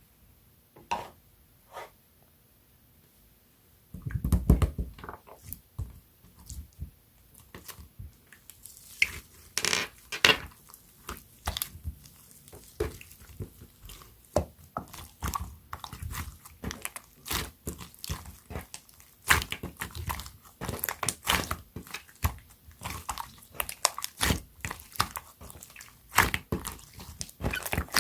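Clear slime being squeezed and pressed by hand, making sticky popping and crackling clicks that come thick and irregular from about nine seconds in. A short low thump about four seconds in.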